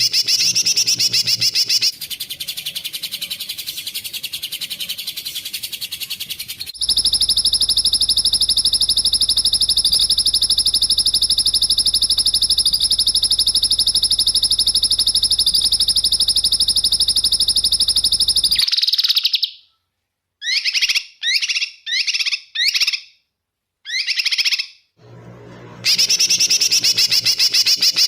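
Recorded songbird training song ('masteran'): a rapid, high, buzzy trill that runs unbroken for about eleven seconds, then about six short chirped calls with gaps between them, then the trill again near the end.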